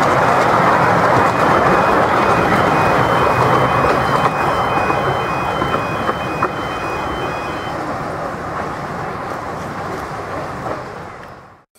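Miniature steam railway train of passenger coaches rolling past on the track and drawing away, its rumble fading steadily over several seconds before cutting off abruptly near the end.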